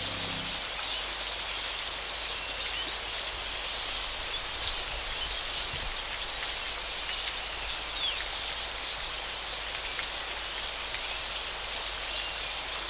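Dense chorus of many small birds chirping and twittering, a constant mesh of short high calls with no single bird standing out.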